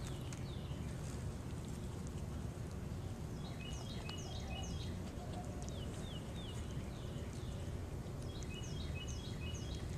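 Steady low outdoor background rumble with a small bird singing two bursts of quick, repeated chirping phrases, one about four seconds in and one near the end.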